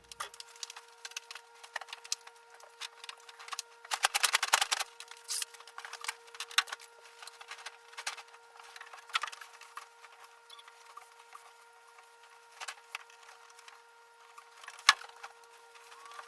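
Scattered light clicks and ticks of handling, with a dense rustling flurry about four seconds in and one sharp knock near the end, over a faint steady hum.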